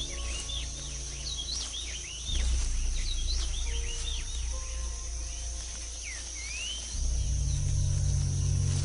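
Forest night-and-day ambience: a steady high insect drone with many short, swooping bird calls repeating, over low sustained musical tones that swell about seven seconds in.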